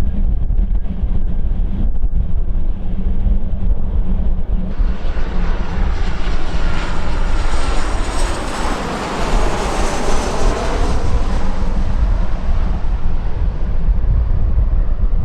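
A jet airliner passing by. Its engine noise with a high whine swells from about five seconds in, peaks near ten seconds and then fades, over a steady low rumble of wind on the microphone.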